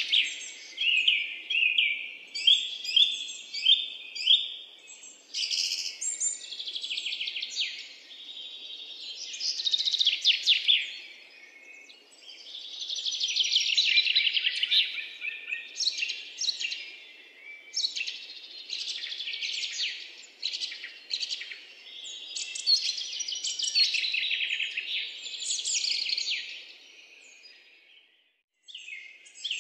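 Songbirds singing: a continuous run of quick chirps and trills, with a brief pause near the end.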